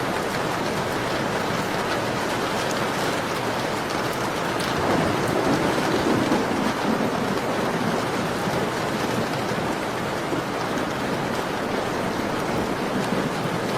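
Steady rainfall pattering on a surface, with a few faint fireplace crackles. About five seconds in, a low rumble swells for a couple of seconds, then fades back into the rain.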